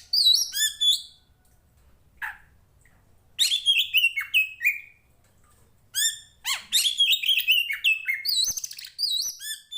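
Oriental magpie-robin (kacer poci) singing: three bursts of quick, downward-slurred whistled notes with short gaps between them, the last burst the longest.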